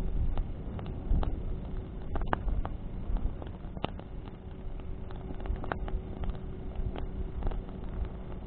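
Bonfire burning in the wind: a steady low rumble of flames and wind with irregular sharp crackles and pops from burning branches, a dozen or so scattered through.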